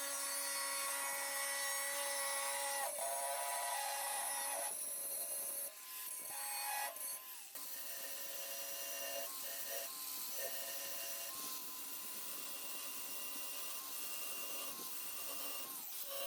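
Steel being worked with a motorised tool: a steady whine that shifts in pitch several times, over a gritty, rasping hiss.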